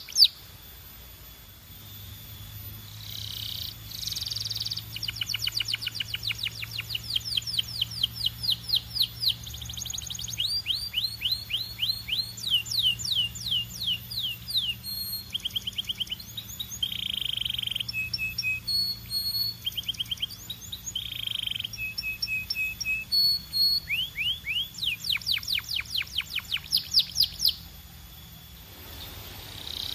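Canary singing long rolling trills: fast runs of repeated sweeping notes in changing phrases, with brief pauses about a second in and near the end.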